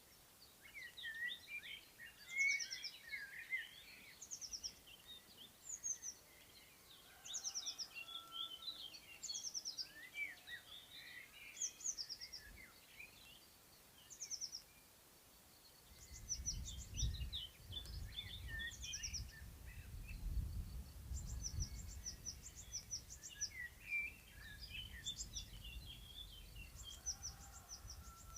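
Several songbirds singing together in spring countryside, with a short high trill repeating every couple of seconds over busier chirps and warbles. About halfway through, a low rumble joins in underneath.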